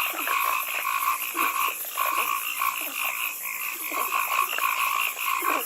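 A chorus of many frogs calling together: a continuous pulsing trill with short, falling croaks overlapping it.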